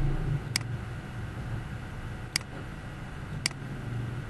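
Computer mouse button clicking three times, sharp single clicks spaced a second or two apart, over a low steady background hum.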